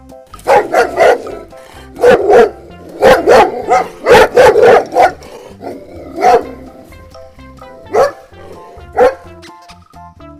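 Dog barking repeatedly, in quick clusters of barks at first and then single barks a couple of seconds apart.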